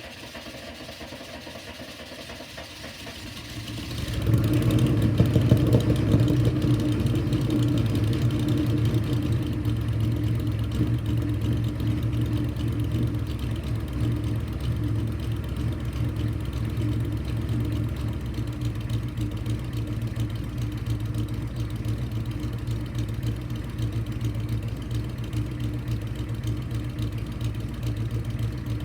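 A GM 6.2-litre Detroit diesel V8 catches and starts about four seconds in on a cold start, loudest just after it fires. It then settles into a steady idle as the fuel begins to flow properly on the cold engine.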